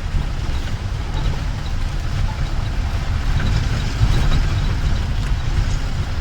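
Jeep running with a steady low rumble.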